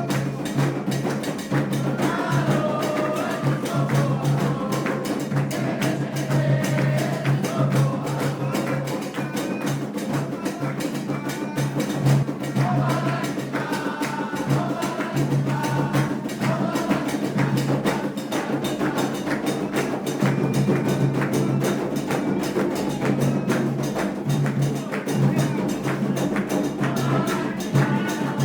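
Candomblé ritual music: a fast, steady drumming rhythm on percussion, with voices singing over it.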